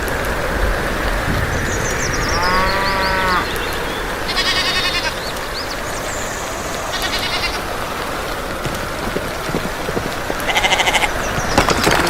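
A farm animal calls once, about a second long, a little over two seconds in, over a steady noisy background. Short, rapid, high chirping trills come three times.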